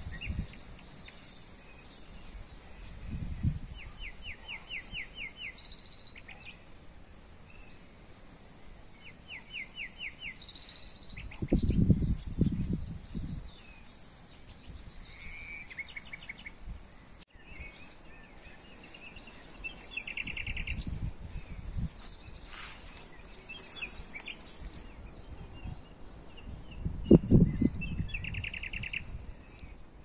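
Birds singing: a small bird repeats a quick trill of about eight even notes several times, with a few other faint chirps, over a steady faint hiss. Several bursts of low rumble break in, loudest near the middle and near the end.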